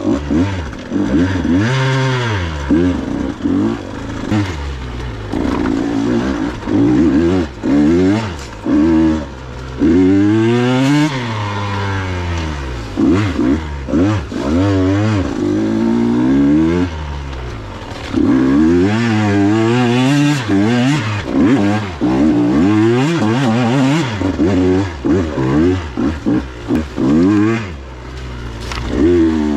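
KTM 125 XC two-stroke single-cylinder dirt bike engine revving up and down over and over, the throttle opened in repeated bursts and eased off between them.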